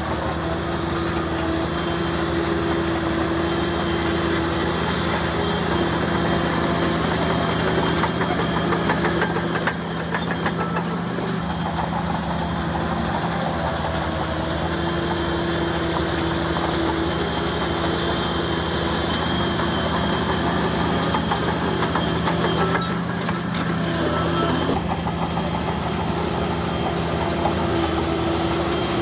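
Diesel engine of heavy earthmoving machinery running steadily. A higher held tone comes in and out every ten seconds or so.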